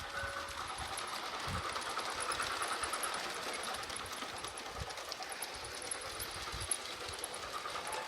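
Garden-scale model train running along an outdoor track: a steady whir of motor and wheels with fast light clicking.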